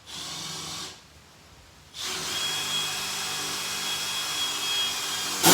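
12-volt cordless impact driver running steadily for about three and a half seconds, its motor pitch level with a thin high whine. It is preceded by a brief scuffing noise and cut off by a short, loud burst at the end.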